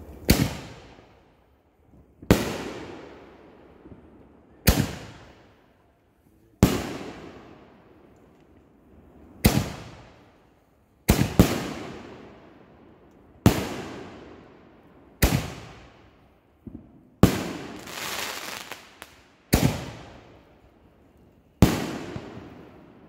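Aerial fireworks going off: about a dozen sharp bangs, roughly one every two seconds, each trailing off in a long fading echo.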